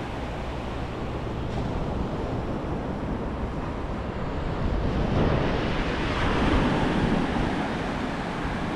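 Small, calm surf at low tide washing onto the beach, with some wind on the microphone; the wash swells louder about five seconds in.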